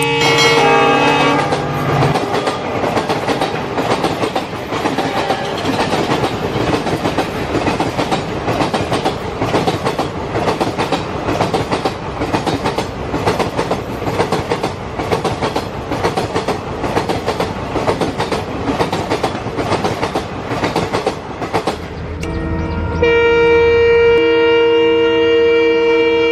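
Train horn sounding and cutting off about two seconds in, then a steady regular clickety-clack of wheels running over rail joints. A long two-tone train horn starts near the end and holds.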